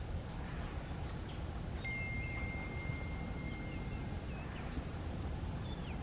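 Wild birds calling with short whistled chirps and slurs, and one long, steady, pure whistled note held for about two and a half seconds, over a low rumble.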